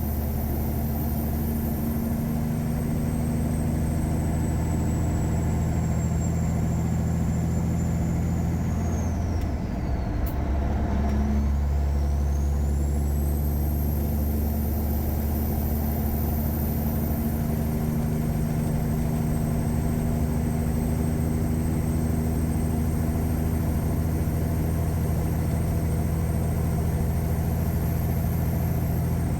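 Caterpillar 3406E diesel engine of a Freightliner Classic truck running steadily under way, with a high whine above the engine note. About ten seconds in, the engine note breaks briefly and the whine falls away, then climbs back as the engine pulls again.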